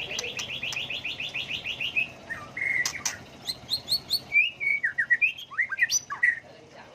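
White-rumped shama singing. It opens with a fast trill of about nine repeated rising notes a second, lasting about two seconds, then switches to a changing string of whistles and down- and up-slurred notes, with a few sharp clicks.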